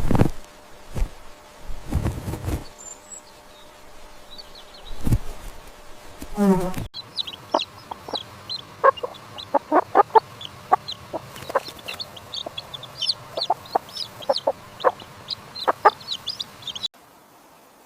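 Chickens clucking in a busy run of many short calls that fills the second half, some sharp and high-pitched. Before them come a few low thuds and rumbles, and the sound cuts off abruptly near the end.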